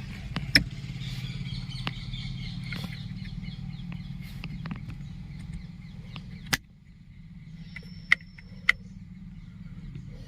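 Sharp metallic clicks and knocks from the rear seat-back lock and its fittings being handled and tested, the loudest about six and a half seconds in and two more about half a second apart near the end. A steady low hum runs underneath.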